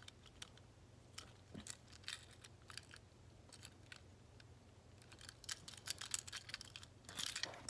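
Faint, scattered clicks and taps of a small plastic toy train engine being handled, growing busier near the end.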